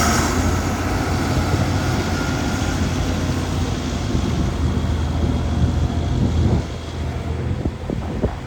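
Cockshutt 1855 tractor engine running steadily with a low hum, which drops away about six and a half seconds in, leaving wind noise and a few clicks.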